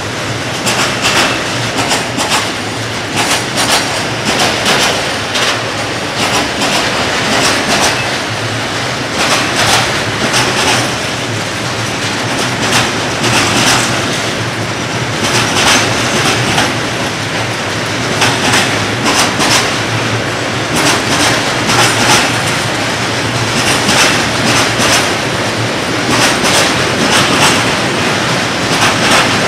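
Freight train of rail tank wagons rolling past close by: a steady loud rumble of wheels on rail, with repeated clickety-clack as the wheelsets cross rail joints.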